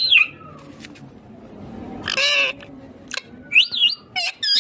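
Indian ringneck parrot (rose-ringed parakeet) squawking: a series of short, harsh calls that slide up and down in pitch, one at the start, a fuller one about two seconds in, and a quick run of calls near the end.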